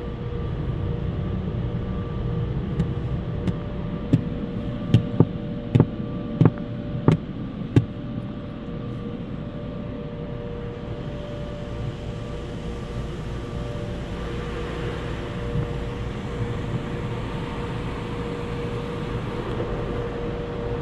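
Automatic tunnel car wash heard from inside the car: steady machinery hum, a quick string of sharp knocks about four seconds in, then a hissing spray that builds from about eleven seconds.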